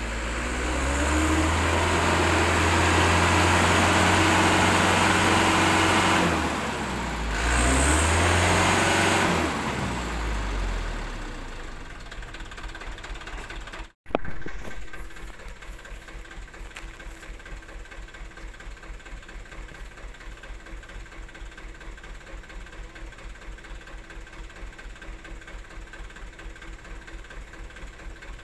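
Super HDX dump truck's diesel engine revving hard twice, pitch climbing and falling, then dropping back. After a brief break it settles into a steady idle with an even pulsing beat.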